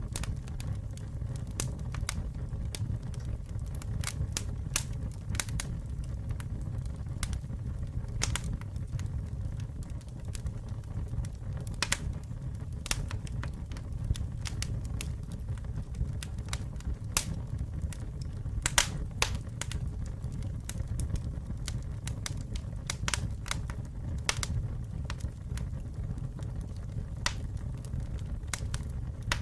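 Wood fire burning steadily, with a low rumble and frequent irregular sharp crackles and pops from the burning logs.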